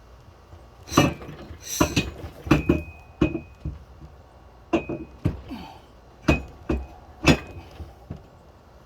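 Irregular metal clanks and knocks, about a dozen, some with a short metallic ring, as tools and hydraulic cylinder parts are handled and struck at a workbench.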